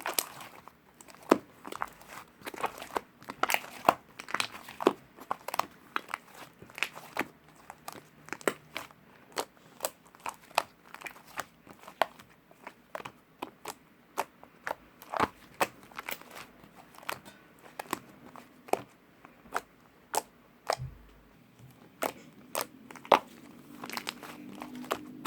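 Slime being squeezed and poked by hand, making sharp, irregular crackling clicks, two or three a second.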